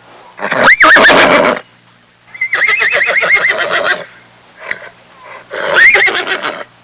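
An animal calling three times, each a loud call with a quavering, wavering pitch; the middle call is the longest and pulses rapidly.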